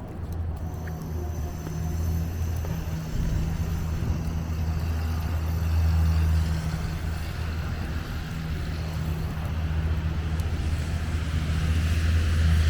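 A motor vehicle's engine running steadily nearby with a low, even hum, over faint street traffic noise.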